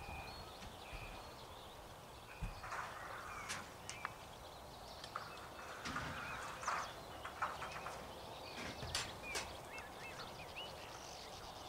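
Faint outdoor background with scattered short bird chirps and whistles and a few sharp clicks.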